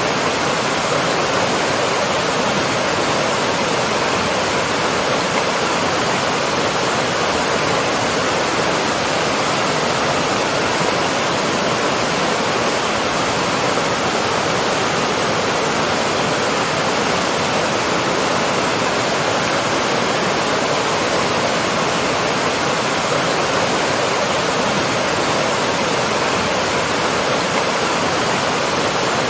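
Waterfall: water falling and splashing, a steady, unbroken rushing that does not change.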